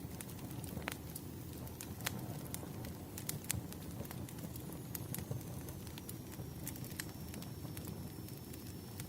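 Wood fire crackling: irregular sharp pops and snaps from burning logs over a low, steady rumble of the flames. A faint high whistle enters about halfway through and sinks slightly in pitch.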